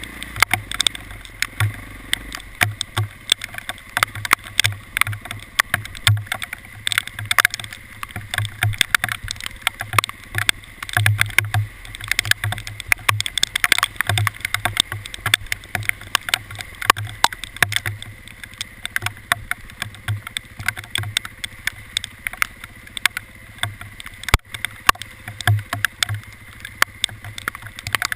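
Hail falling, a dense, irregular clatter of sharp hits on hard surfaces, with scattered low thumps underneath.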